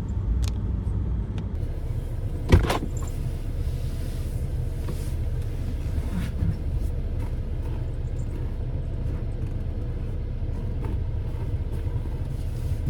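Vehicle running with a steady low rumble, with a single sharp thump about two and a half seconds in and a few faint clicks.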